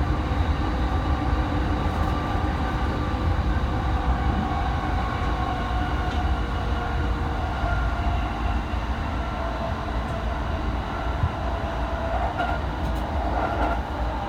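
Running noise of a JR E217-series electric train heard from inside the car: a steady rumble from the wheels and rails, with a few faint steady whines on top.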